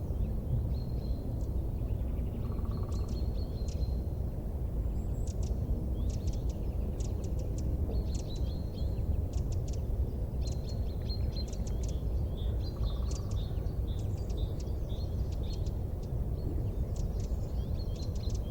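Wood fire burning in a fireplace: a steady low rumble with frequent sharp crackles and pops that come in quick clusters.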